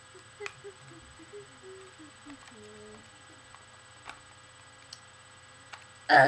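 Quiet low humming of a short tune, one note after another, with a few light clicks and taps. A louder voice cuts in at the very end.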